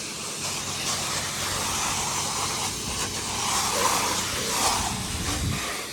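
Pressure washer spraying: a steady hiss of the water jet, with the machine's engine running low underneath.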